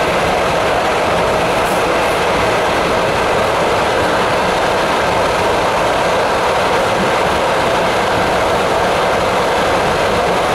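ET2M electric multiple unit running along the line, heard from aboard: a steady, even rumble of wheels on rail.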